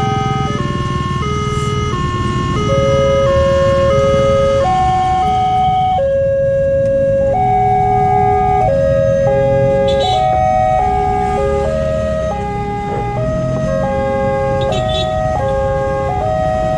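A loud electronic tune of clear tones stepping from one pitch to the next about every half second to second, over a steady low rumble.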